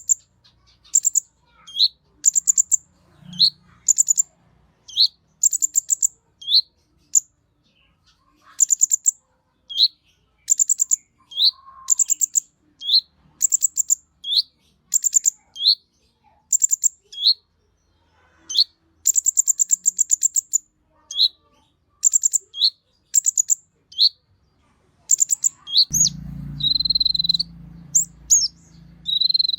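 Kolibri ninja (Van Hasselt's sunbird) in full, agitated song, repeating short phrases about once a second: a fast, high, buzzy trill, then a short rising note. Near the end a low rumble comes in, with a longer held whistle.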